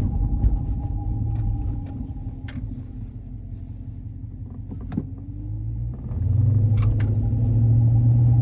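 Dodge Charger heard from inside the cabin while driving: engine and road rumble with a thin steady whine, easing off through the middle and then rising sharply about six seconds in as the car accelerates. The whine is the right-side noise the driver hears only while moving and takes for something in the wheel well.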